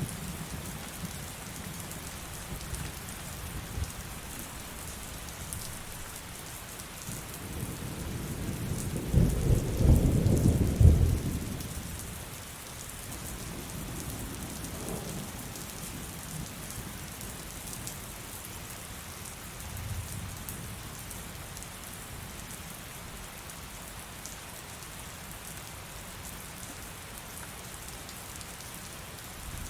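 Heavy rain falling steadily, with a roll of thunder that builds a quarter of the way in, peaks loudly and dies away before halfway; a fainter low rumble follows about two-thirds in.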